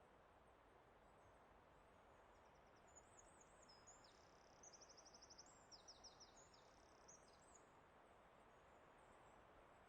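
A songbird singing high, quick chirping phrases with a rapid trill in the middle, over a faint, steady rush of forest background noise.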